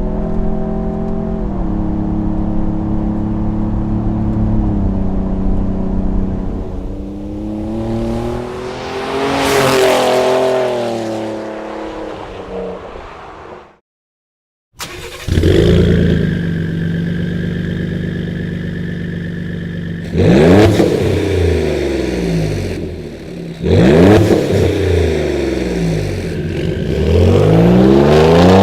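2017 Ford Raptor's twin-turbo EcoBoost V6 through a Borla aftermarket exhaust, running steadily, then swelling to a peak and falling away about ten seconds in. After a short silence it runs steadily again and revs up sharply twice, then once more near the end.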